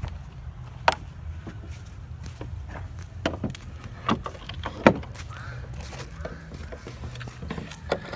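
A handful of sharp knocks and metallic clinks, spaced irregularly, with the loudest about five seconds in, over a low steady rumble. They come from a log being shifted, clamped and lined up on a portable sawmill.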